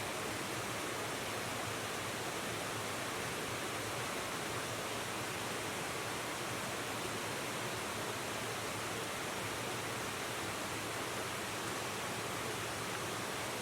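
River water rushing steadily, an even, unbroken rush.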